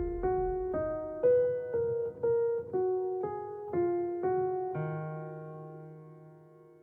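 Background music ending: a piano plays single notes about two a second, then a held chord about five seconds in that fades out.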